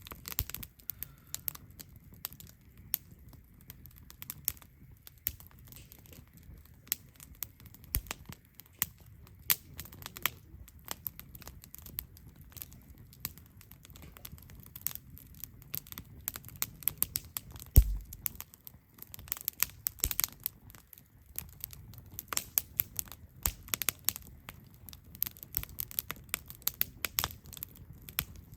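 Wood campfire crackling: irregular sharp pops and snaps over a low steady rush, with one louder pop and thump about two thirds of the way through.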